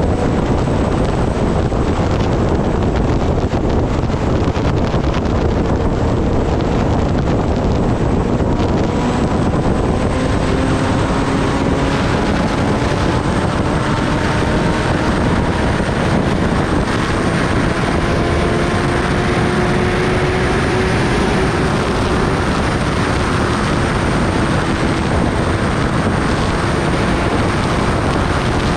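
Heavy wind rush over the microphone at riding speed, with a Kawasaki ZX-10R's inline-four engine underneath, its pitch climbing slowly and steadily from about a third of the way in.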